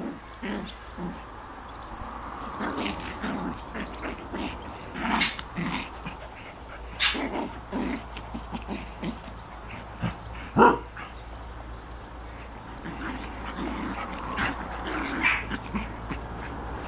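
Dogs play-fighting: an irregular run of short low growls and grunts mixed with higher yips and whines, with one loud sharp bark about ten seconds in.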